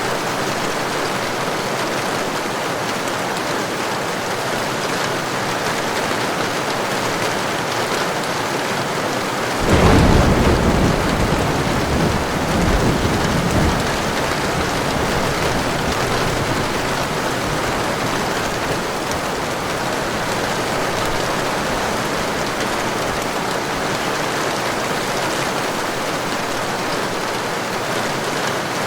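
Heavy rain falling steadily. About ten seconds in, a sudden thunderclap breaks out and rumbles for about four seconds before sinking back under the rain.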